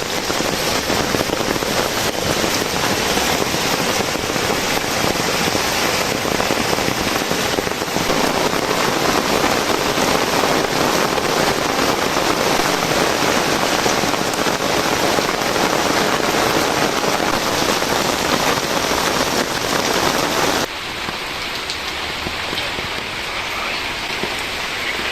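Heavy rain falling steadily; about twenty seconds in it drops suddenly to a lighter, thinner rain sound.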